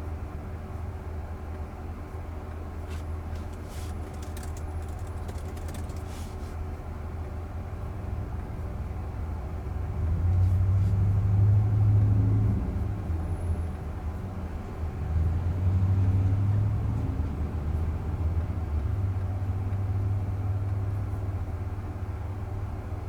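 Road and tyre noise inside the cabin of a Waymo robotaxi on the move, a steady low rumble with a faint hum that swells louder twice around the middle.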